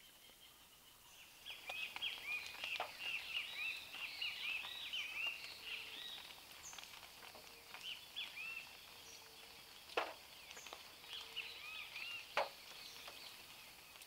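Birds chirping in a dense chorus of many short, high calls overlapping each other. Two sharp taps stand out about ten and twelve seconds in.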